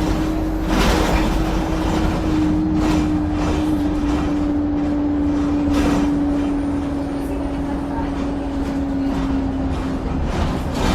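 Bus running under way, heard from inside the passenger cabin: low rumble with a steady droning note that slowly sinks in pitch, a faint high whistle in the middle, and occasional rattles and knocks.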